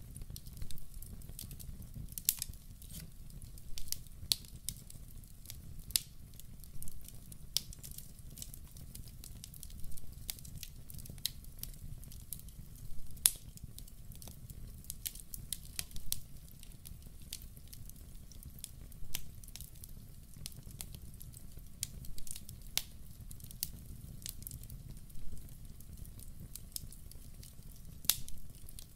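Wood fire burning in a fireplace: a steady low rumble of flames with irregular sharp crackles and pops from the burning logs. The loudest snaps come about 13 seconds in and again near the end.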